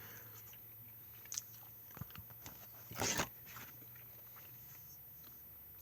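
Handling noise from a shrink-wrapped plastic DVD case: a few light clicks and one short plastic crinkle about three seconds in, over a faint low hum.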